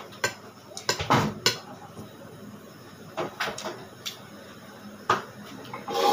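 Cutlery clinking against plates and dishes in irregular, scattered knocks while food is served and eaten at the table.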